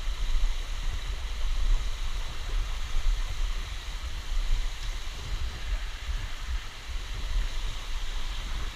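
Steady rush of a waterfall, an even wash of falling water with a low rumble that swells and dips underneath.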